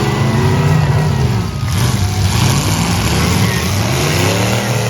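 Several derby car engines revving, their pitch climbing and dropping over and over.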